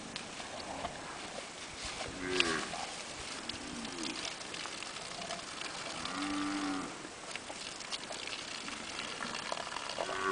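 A cow mooing in short calls, about five of them, the longest nearly a second long about six seconds in.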